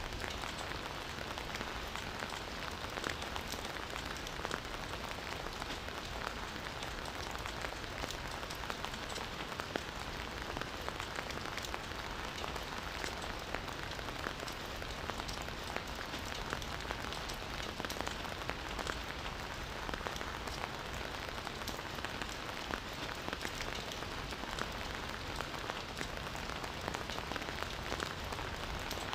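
Steady rain falling on a forest, an even hiss full of fine individual drop ticks.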